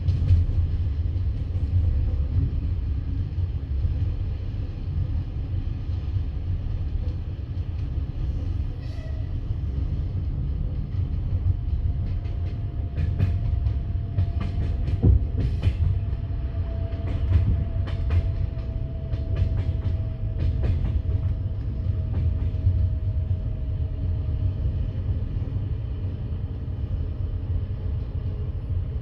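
Passenger train wheels rumbling on the rails, heard from inside the carriage. Through the middle comes a run of sharp clacks as the wheels cross rail joints and points on the station approach, with a faint thin whine alongside.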